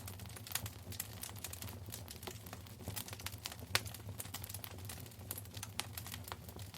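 Wood fire crackling in a fireplace: a dense, irregular run of sharp pops and snaps over a low steady rumble, with one louder pop a little past halfway.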